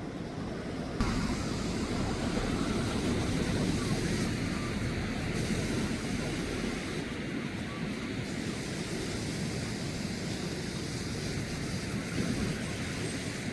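Sea waves washing on the shore, with wind buffeting the microphone; the rush grows louder about a second in and then holds steady.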